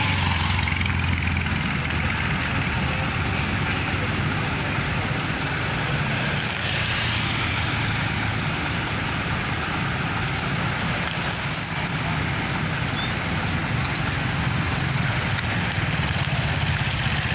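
Busy road traffic: a steady mix of engine rumble and road noise from passing vehicles, with no breaks.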